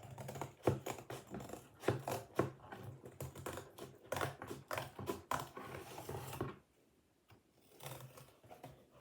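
Scissors cutting through a cardboard box: a run of irregular crunchy snips, pausing for about a second near the end before a few more.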